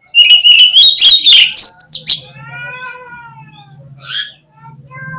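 Oriental magpie-robin (kacer) song: a loud, rapid burst of sharp clicks and high whistles lasting about two seconds, followed by softer drawn-out calls.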